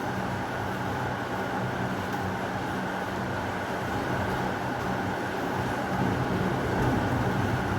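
Steady heavy rain: a dense, even wash of noise with a low rumble beneath, growing slightly louder about six seconds in.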